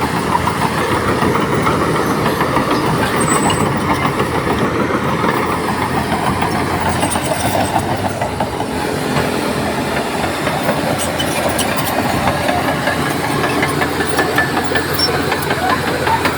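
Crawler bulldozer working: diesel engine running steadily under load with a dense clatter from its steel tracks, easing slightly about halfway through.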